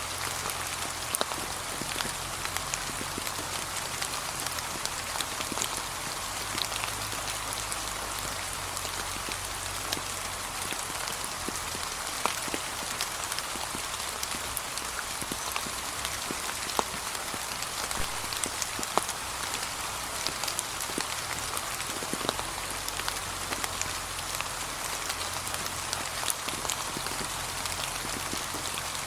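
Gentle, steady rain falling on fallen autumn leaves: an even hiss with scattered sharp ticks of single drops landing close by.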